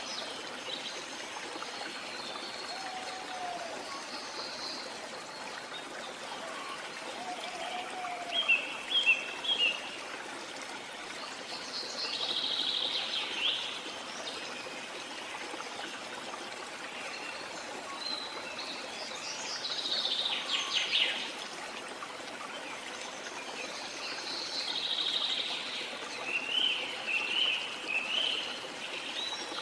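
Steady rushing of flowing stream water with birds calling over it: clusters of quick chirps, longer buzzy trills, and a few low whistled notes early on.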